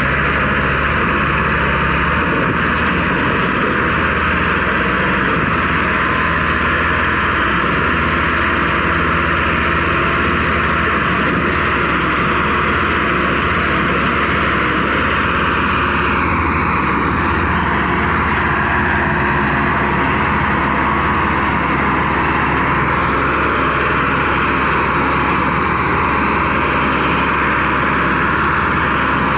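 Tractor diesel engines running, a loud steady drone with a slight shift in tone about halfway through.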